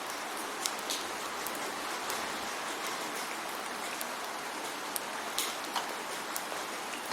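Steady rain falling, an even hiss with scattered sharp drop taps on a surface standing out every so often.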